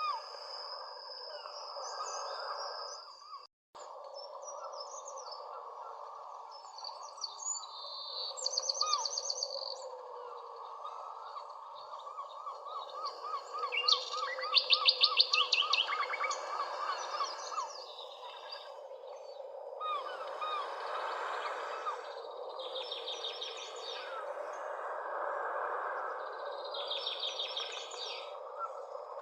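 Several birds singing over a steady background of outdoor noise. Repeated high, rapid trills come every few seconds, and a long run of quick chirps rises in the middle. The sound drops out for an instant about three and a half seconds in.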